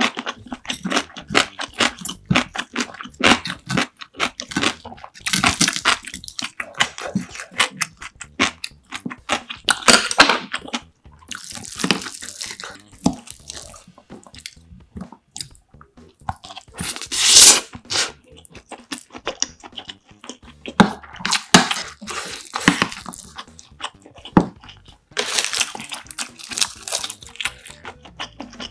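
Close-miked eating: wet chewing and mouth sounds as rice and grilled mackerel are eaten, with many small clicks of chopsticks and a spoon against the bowl. Several louder crunchy bursts stand out, the loudest about 17 seconds in.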